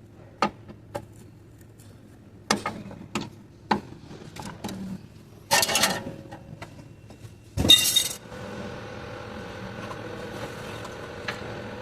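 Metal tools and parts clinking and knocking as an engine mount is worked loose, with two short, loud noisy bursts in the middle. A steady hum with several held tones starts about eight seconds in.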